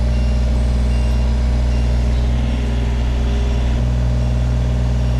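Takeuchi TB230 mini excavator's diesel engine running steadily, with faint short beeps about once a second.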